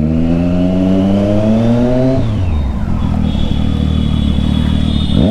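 Triumph Street Triple 675 inline-three with a Yoshimura exhaust, loud on the move. It rises in pitch under throttle for about two seconds, then drops sharply and runs on at a steadier, lower note.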